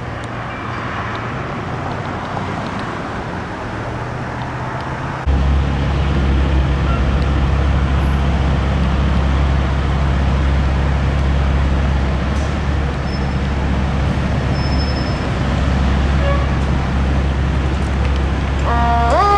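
Street traffic noise, then, after a cut, the steady deep rumble of a fire truck's engine close by. Near the end the fire truck's siren starts, winding up in rising steps.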